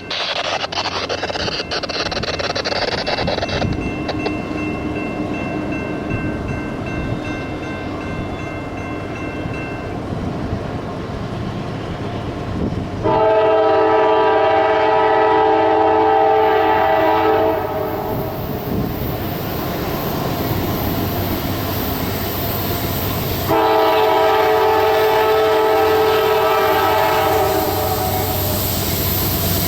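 A CSX freight locomotive's multi-chime air horn sounds two long blasts, each about four seconds, over the steady rumble of the passing freight train.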